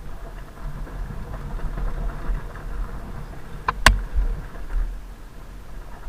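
2005 Suzuki RM-Z250 four-stroke single-cylinder dirt bike engine running, under a steady low rumble, with a sharp knock about four seconds in.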